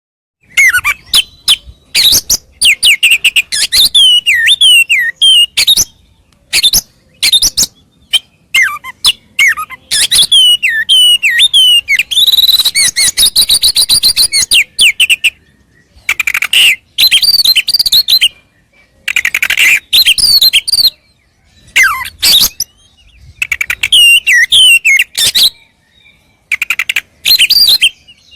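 Oriental magpie-robin (kacer) singing loudly: bouts of quick sliding whistles mixed with sharp clicking chatter, broken by short pauses. This is the varied, mimic-rich full song of a male in fighting condition.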